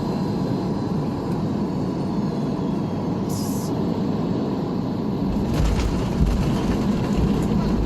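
Airliner cabin noise during landing: a steady rush of engines and airflow, then about five seconds in a deeper rumble with a few knocks and jolts as it grows louder.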